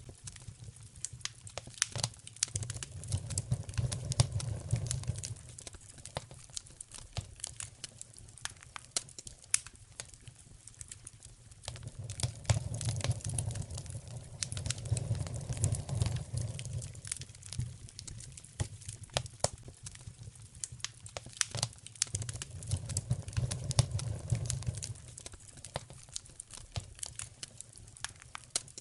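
Wood fire crackling in a fireplace: a steady scatter of sharp pops and snaps, with a low rumble swelling up three times.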